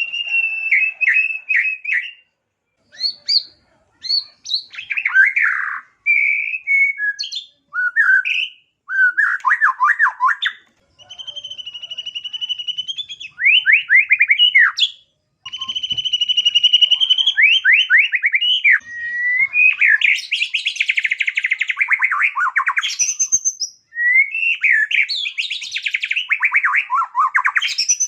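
White-rumped shama (murai batu) singing a long, varied song, running through imitated calls of small birds. It moves between held whistles, fast trills and quick falling sweeps, one phrase after another with short pauses between.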